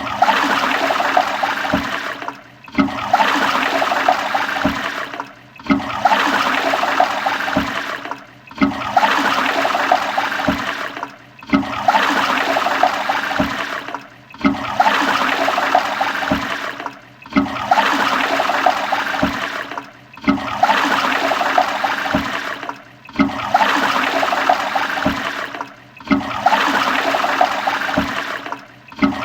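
Toilet flushing: a rush of water that starts loud and fades. It cuts off and starts again about every three seconds, a short flush recording repeated over and over.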